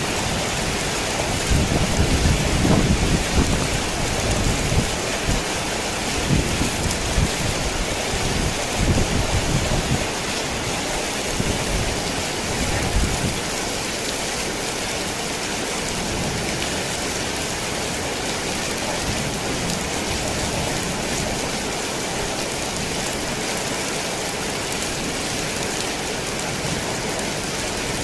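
Heavy rain falling steadily on a worn tin roof, with thunder rumbling in slow low surges through the first half that die away about halfway through, leaving only the steady rain.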